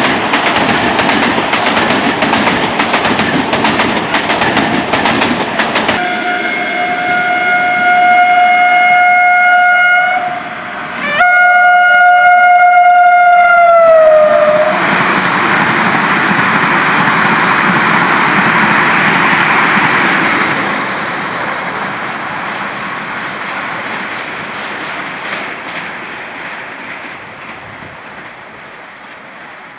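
Hyundai Rotem HRCS2 electric train running past, its wheels clicking over the rail joints. Its horn then sounds two long single-note blasts, the second dropping in pitch as the train goes by. After that the cars run past and the sound fades away.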